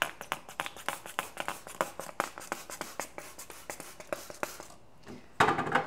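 Rapid light clicks, taps and scratches of hands handling and setting down small items, several a second. A short, louder rush of noise comes near the end.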